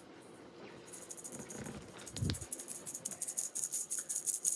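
Rapid, even rattling, like something small being shaken, starting about a second in, with a short low thump a little past two seconds.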